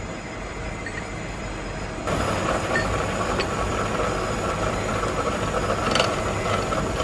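Steady workshop machinery running, a continuous mechanical noise that steps up and takes on a faint steady whine about two seconds in, with a brief click near the end.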